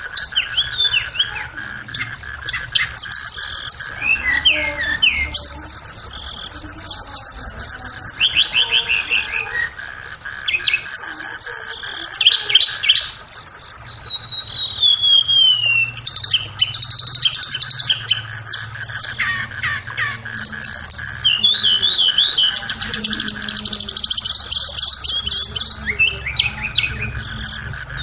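Blue flycatcher (tledekan) song: phrase after phrase of fast high trills, rapid chattering note runs and falling whistles, with short gaps between phrases. A faint steady tone hums underneath.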